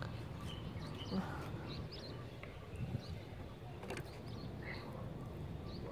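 Small birds chirping faintly now and then, short high calls over a low steady background noise.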